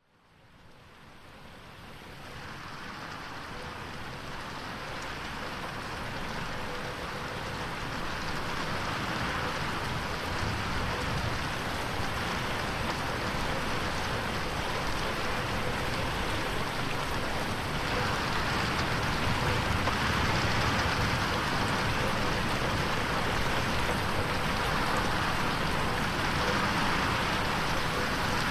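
Steady rain on a window pane, fading in from silence over the first few seconds and then holding even. It is mixed as an 8D effect that pans the rain around the listener.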